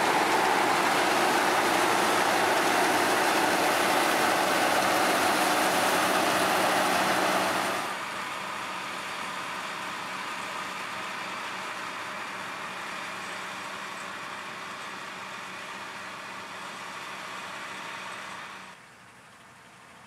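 Diesel engine of harvest machinery running steadily. The level drops abruptly about eight seconds in and again near the end.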